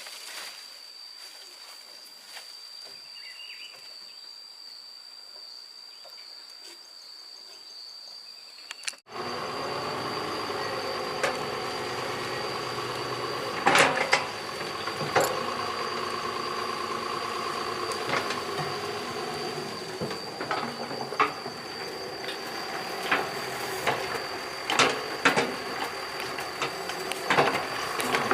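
Excavator diesel engine running, with repeated sharp metallic clanks and knocks. It cuts in abruptly about nine seconds in, after a quieter stretch holding only a steady high-pitched tone.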